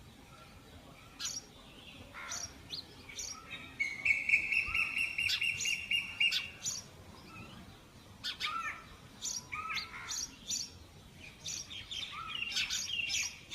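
Sparrows chirping in short repeated calls, with a steady, rapid trill lasting about three seconds in the middle.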